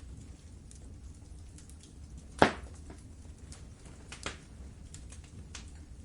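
Wood fire crackling in a fireplace: scattered small snaps over a low steady rumble, with one loud pop about two and a half seconds in and a smaller one about four seconds in.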